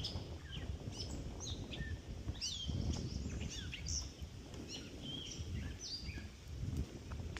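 Several songbirds singing and chirping in spring swamp woodland, many short sweeping whistled notes overlapping, over a low uneven rumble.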